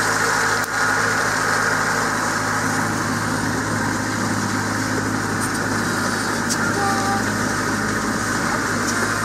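Land Rover Defender's engine running steadily as the vehicle drives slowly along a muddy dirt track, an even low hum with no change in pitch.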